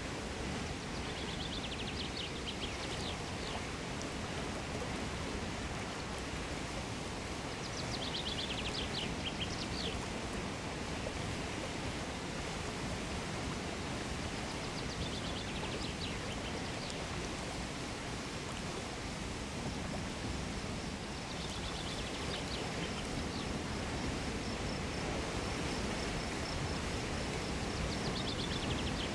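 Mountain torrent rushing steadily. A bird breaks in about every seven seconds with a short phrase of rapid, falling notes.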